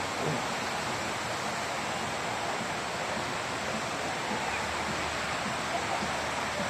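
Steady rushing outdoor noise, an even hiss, with faint distant voices underneath.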